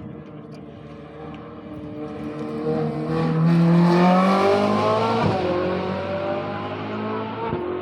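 A historic rally car accelerating up the road and driving past, its engine note rising as it approaches, loudest about halfway through, then dropping in pitch and fading as it goes by.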